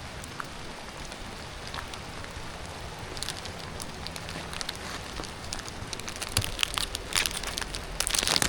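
Steady rain falling, with sharp crackling and rustling clicks that start about three seconds in and grow denser toward the end.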